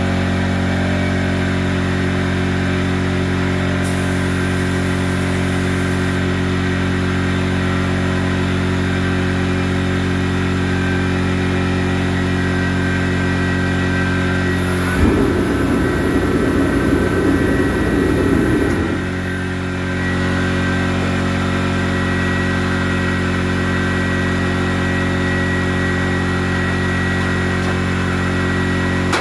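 Steady mechanical hum. About fifteen seconds in, a louder burst of hissing, rumbling noise lasts about four seconds.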